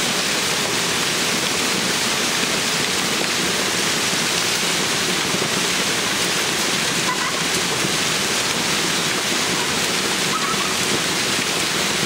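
Hailstorm: hailstones pelting down in a dense, steady, unbroken din.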